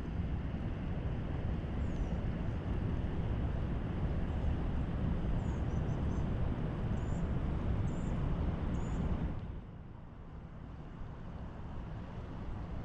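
Steady rushing roar of high spillway water, heaviest in the low end. About nine and a half seconds in it drops suddenly to a quieter rush.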